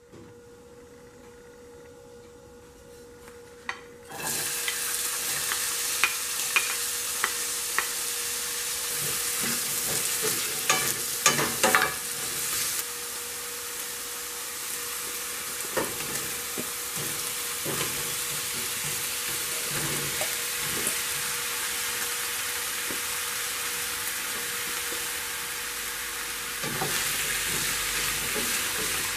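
Chopped onion and garlic sizzling in hot olive oil in a stainless steel frying pan, starting suddenly about four seconds in and then running steadily. A few sharp clacks against the pan follow. The sizzle grows louder near the end as zucchini rounds are stirred in with a wooden spoon.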